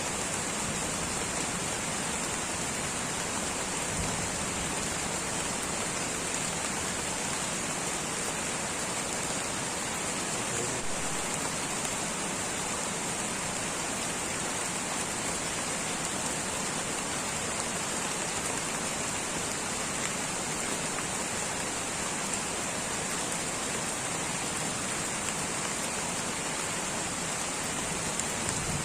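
Light rain falling steadily in a tropical rainforest: an even, unbroken hiss with no single drops or events standing out.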